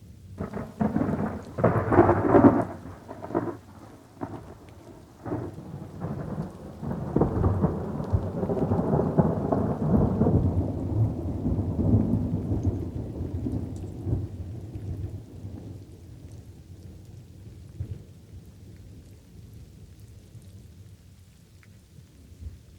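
Thunderstorm with light rain: a sharp crackling thunderclap in the first few seconds, then a long rolling rumble that swells and fades away. After the rumble dies away, steady light rainfall carries on.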